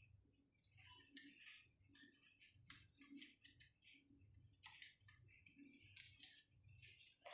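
Faint, irregular clicks and light taps of small hardware being handled during a patient monitor board swap.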